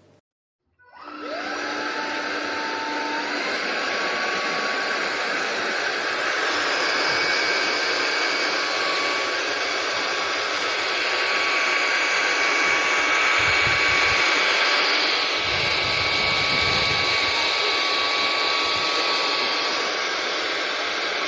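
Sulean X8 cordless stick vacuum switched on about a second in: its motor whines up in pitch over the next few seconds and then runs steadily with a high whine over a loud rush of air.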